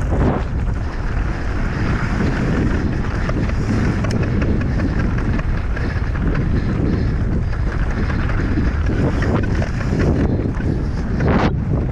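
Wind rushing over the microphone during a fast mountain-bike downhill descent, steady and heavy in the low end, with scattered short knocks and rattles.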